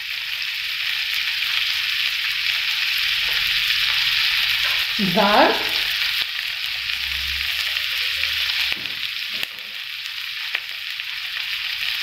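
Chopped onions and a mound of raw minced beef sizzling steadily in a nonstick frying pan.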